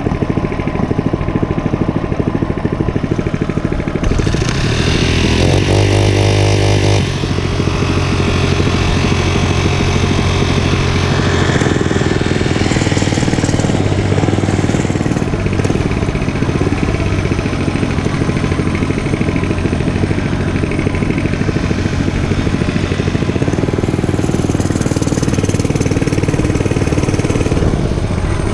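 Dirt bike engine running under way; about four seconds in it revs up and gets louder for a few seconds, then settles into steady running.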